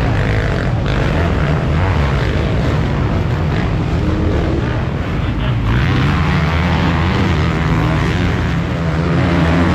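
Motocross bikes racing on the track, several engines revving up and down together; the sound gets brighter and harsher about halfway through.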